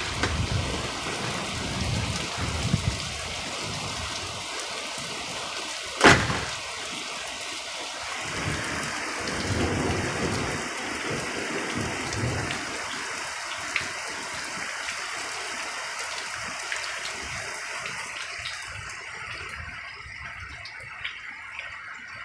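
Steady rain during a thunderstorm, with low rolls of thunder and a single sharp crack about six seconds in. The rain eases toward the end.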